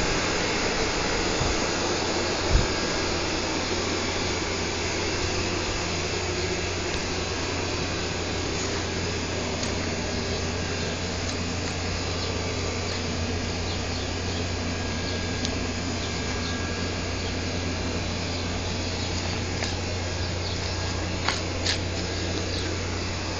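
A steady mechanical drone with a constant low hum, a single sharp knock about two and a half seconds in, and a few light clicks near the end.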